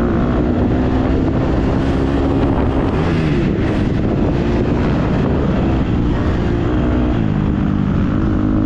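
Dirt bike engine being ridden on a motocross track, its pitch dropping and climbing again as the throttle is rolled off and back on, with heavy wind rumble on the microphone.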